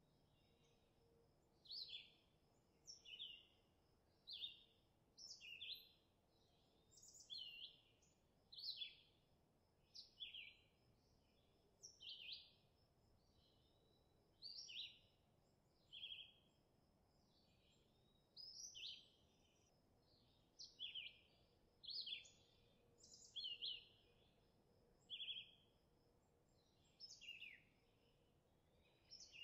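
Birds chirping: a steady run of short, high calls, about one every second, some sliding down in pitch, over quiet outdoor background noise.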